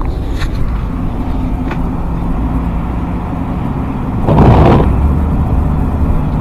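Steady low drone of a 2012 Ford F-250's 6.7 Power Stroke V8 turbodiesel and road noise heard inside the pickup's cab. A brief, louder rush of noise comes about four seconds in.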